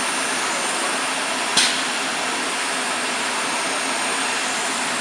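ATC CNC router running, a steady noisy whir with a faint high whine, and one sharp click about one and a half seconds in.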